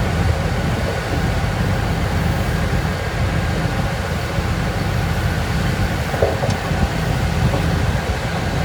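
Heavy diesel engine of earthmoving machinery running steadily, a deep even rumble, with a brief knock about six seconds in.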